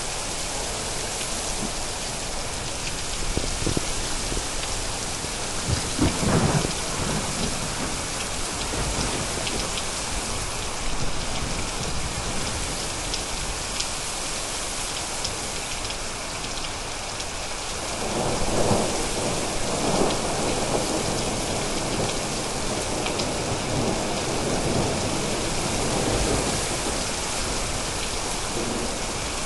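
Steady heavy rain with thunder: a short low rumble about six seconds in, and a longer rolling rumble starting a little past halfway that goes on through the rest.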